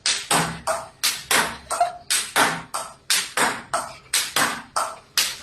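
A rapid, uneven series of about fifteen sharp, short hits or bursts, roughly three a second.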